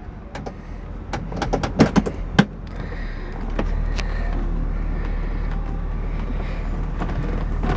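A quick run of clicks and knocks inside the car, then the 1970 Oldsmobile Cutlass's engine idling steadily, heard from the cabin.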